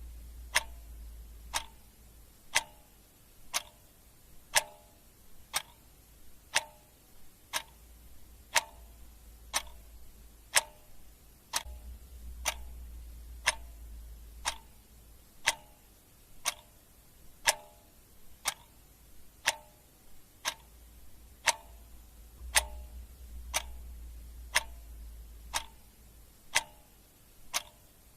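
Clock ticking steadily, about one tick a second, with a faint low rumble underneath that comes and goes.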